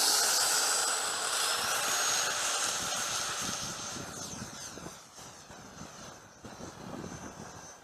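Freewing F-15 Eagle model jet's 4-cell electric ducted fan running with a high-pitched whine over a rush of air. The pitch steps up about two seconds in, then the sound fades steadily as the jet flies away.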